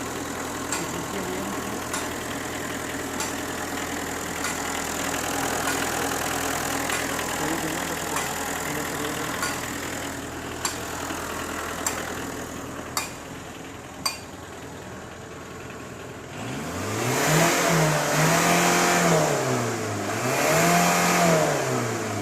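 Car engine idling steadily with a sharp click about every second and a quarter, then revved up and let back down twice near the end.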